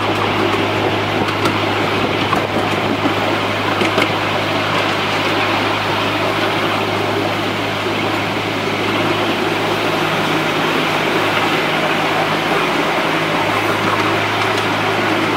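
Miniature railway train running along its track, heard from a passenger seat: steady running noise with a low hum that weakens for a few seconds past the middle and then comes back.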